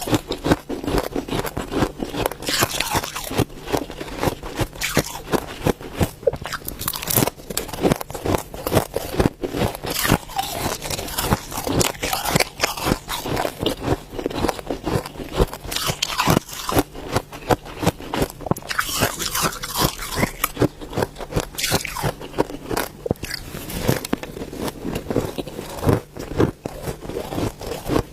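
Ice being bitten and chewed close to the microphone: dense, irregular crunching and crackling, several bites and cracks a second, going on without a break.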